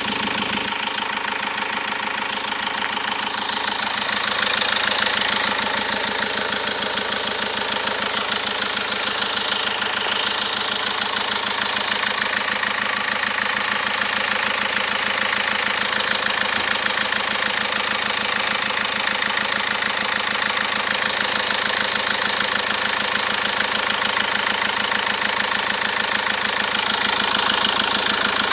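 Car engine running at idle with a noise from the intake side, in an engine that has lost power since its overhaul. The sound is steady, swelling slightly about four seconds in and again near the end.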